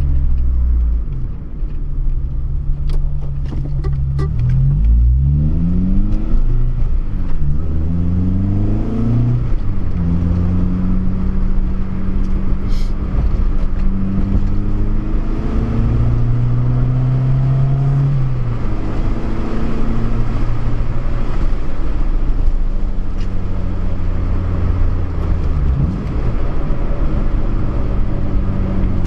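Honda Civic Si's K-series four-cylinder engine accelerating through the gears: the revs climb and drop back at each upshift, three or four times in the first ten seconds, then hold fairly steady at cruise.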